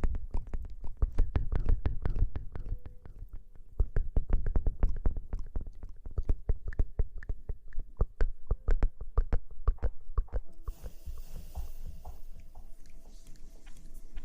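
Close-miked ASMR rustling: rapid, crackly scratching and rubbing right against the microphone, with a soft hiss joining about ten seconds in.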